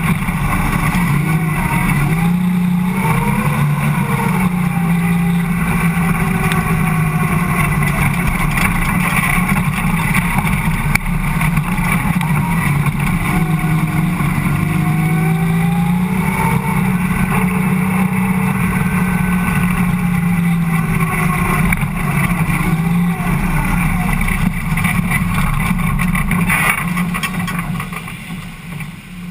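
Ford Cortina dirt-track race car's engine running hard, heard from inside the cabin, its pitch rising and falling as the throttle is worked through the corners. Near the end the engine note drops away sharply as the driver lifts off.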